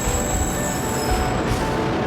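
Kyushu Shinkansen train running at the station: a steady rumble and rush of wheel and running noise, with a high whine that fades out about three quarters of the way through and short held tones changing in pitch over it.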